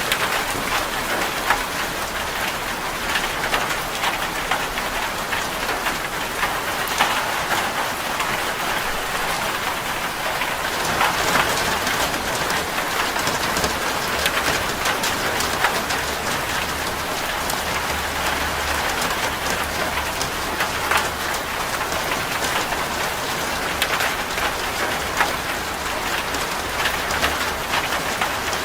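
Steady rain on a corrugated zinc roof: a dense, even patter with many sharper single drop hits. A low rumble comes in under it about halfway through.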